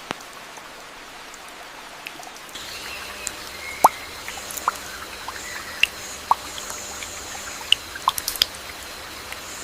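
Rainforest rain dripping: a steady hiss of rain with scattered single drops landing. About two and a half seconds in the hiss grows a little louder and faint high steady tones join it.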